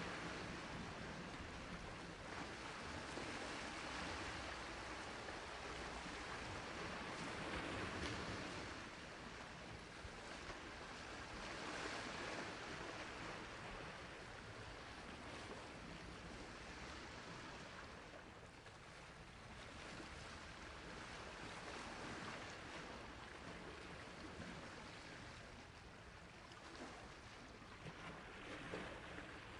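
Sea waves washing onto a shore: a continuous rushing hiss that swells and eases in slow, uneven surges every few seconds.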